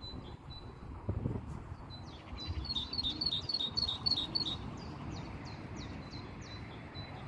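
Small songbird chirping: a quick series of short high notes, about five a second, from about two seconds in, slowing to single notes toward the end.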